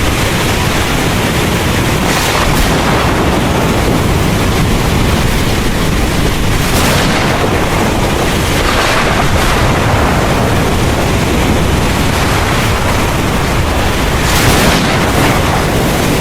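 Heavy rain falling steadily under a continuous low thunder rumble, with a few brief louder swells, the strongest near the end.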